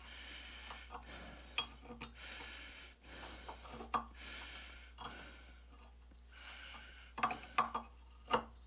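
Quiet metal-on-metal work as a rusted nut is turned off an old steel through bolt with an adjustable wrench: repeated short scraping strokes with sharp clicks between them, then a few quick clinks near the end.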